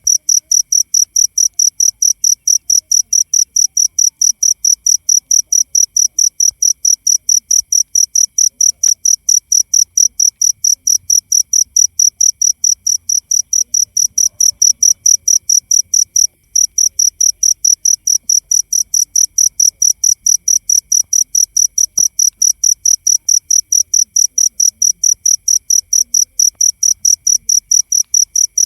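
Cricket chirping in a steady, even rhythm of about four high, clear chirps a second, broken by one short pause about sixteen seconds in.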